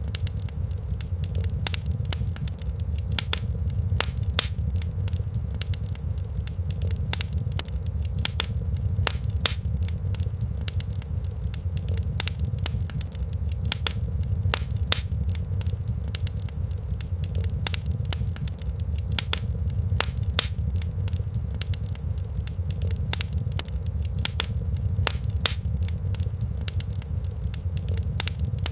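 Wood fire crackling in a fireplace: irregular sharp pops, several a second, over a steady low rumble.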